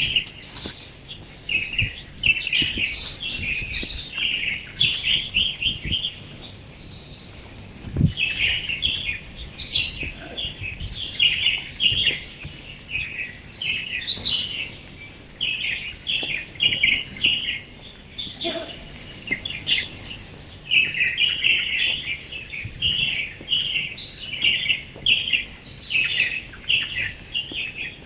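Morning chorus of many small songbirds chirping densely and continuously, the high, overlapping calls sometimes thinning before picking up again. A single low thump about eight seconds in.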